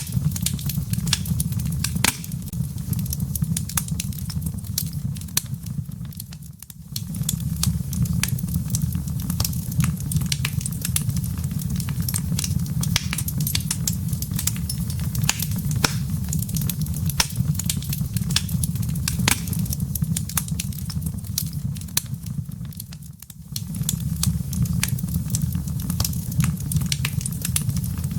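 Wood fire in a fireplace crackling, with dense sharp pops and snaps of the burning wood and embers over a steady low rumble of the flames. The sound dips briefly twice, about six seconds in and again about twenty-three seconds in.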